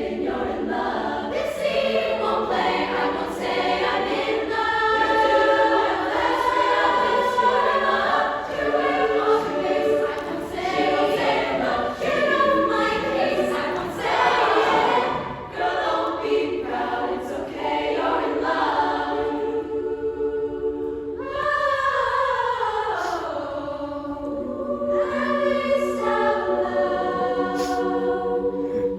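Women's vocal group singing in close harmony, a cappella. About 21 seconds in, the voices slide down together in one long sweep.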